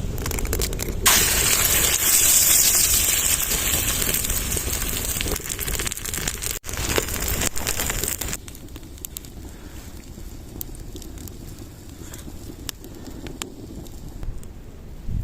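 Eggs sizzling in a hot frying pan, a loud hiss from about a second in that stops abruptly near eight seconds, leaving the fire in the improvised pipe stove crackling with scattered sharp snaps.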